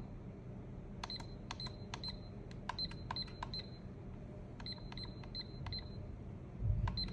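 Buttons pressed repeatedly on a weather-station display console. Each press gives a click and a short, high key beep, about a dozen times in quick groups of two to four, as the display steps through its settings. A dull low thump comes near the end.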